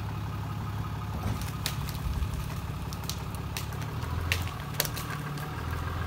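Cummins diesel pickup engine running steadily, its note dropping lower about four seconds in, with several short sharp cracks partway through.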